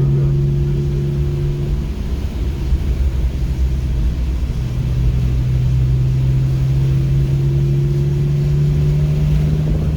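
Car engine heard from inside the cabin, running at a steady drone that fades for about two and a half seconds, then comes back and climbs slowly in pitch as the car picks up speed.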